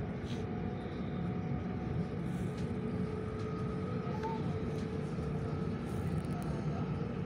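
Steady running noise of an electric passenger train heard from inside the carriage: an even low rumble of wheels rolling on the track, with a faint whine rising above it in the middle.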